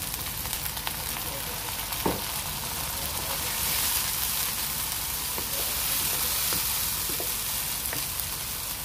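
Browned onions sizzling in hot oil in a nonstick karahi, with a single brief knock about two seconds in. The sizzle grows louder from about three and a half seconds in, as water goes into the pan to cook down the masala.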